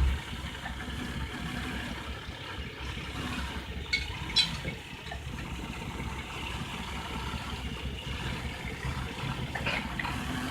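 Toyota 1JZ-GE 2.5-litre inline-six idling steadily, misfiring because of a shorted coil-on-plug ignition coil. A sharp knock comes right at the start and a couple of light clicks about four seconds in.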